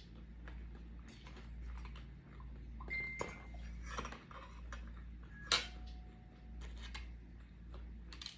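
Scattered light clicks and clinks of tableware and food handling while eating, with one sharp clink about five and a half seconds in that rings briefly, over a steady low hum.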